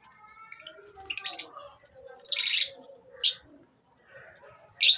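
Lovebirds in a colony calling: four loud, shrill screeches, the longest about half a second, over softer steady chattering.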